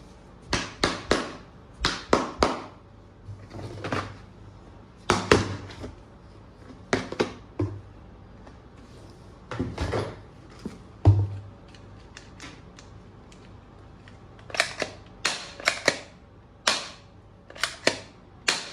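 Hard plastic clicks, snaps and knocks from toy guns being handled, in irregular clusters of sharp strokes with short pauses between.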